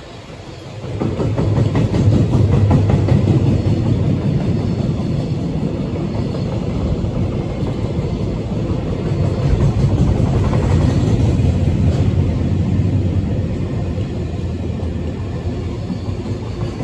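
Freight train running past with a steady heavy rumble, swelling up about a second in and staying loud.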